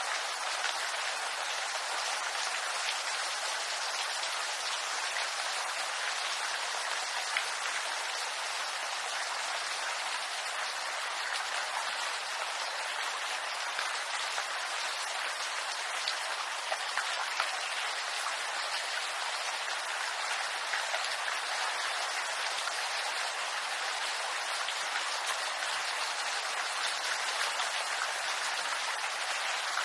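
Steady rain falling on a bamboo grove: an even hiss of rain with scattered single drops ticking through it.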